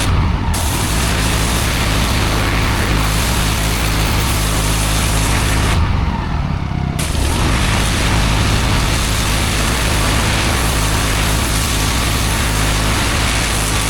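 Petrol-engined pressure washer running steadily while its high-pressure water jet hisses against block paving. The spray cuts off twice, briefly at the very start and for about a second some six seconds in, while the engine keeps running.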